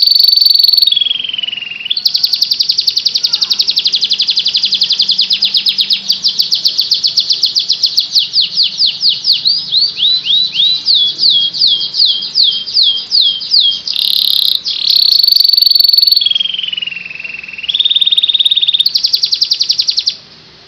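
Domestic canary in full song: a long unbroken run of fast trills and held whistled notes, with a stretch of slower repeated down-slurred notes in the middle, stopping suddenly shortly before the end.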